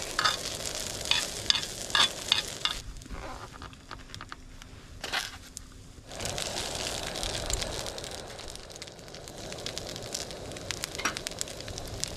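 Food sizzling in a hot pan, with sharp crackles and pops; the sizzle drops away for about three seconds in the middle, then comes back.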